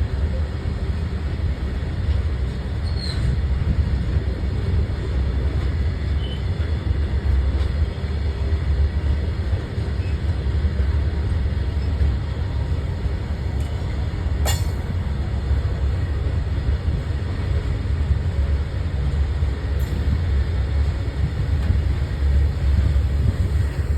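Goods train's wagons rolling past in a steady low rumble, with a single sharp click about halfway through.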